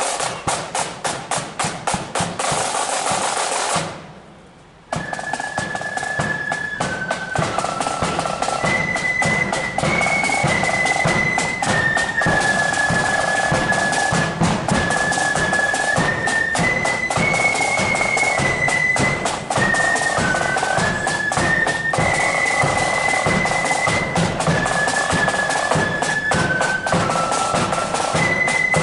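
Marching flute band: snare drums play alone for about four seconds, then after a brief drop the flutes strike up a tune of high held notes over the snare and bass drums.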